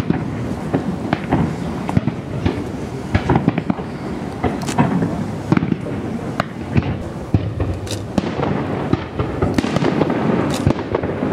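Fireworks display: aerial shells and comets launching and bursting in a dense, irregular series of bangs over a continuous rumble.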